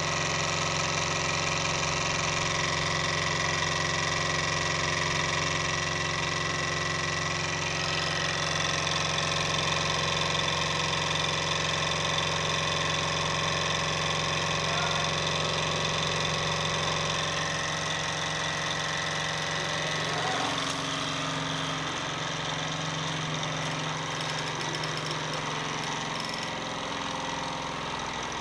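Small model Stirling engine running steadily with a continuous mechanical hum and whir. Its pitch shifts slightly about eight seconds in and again around twenty seconds.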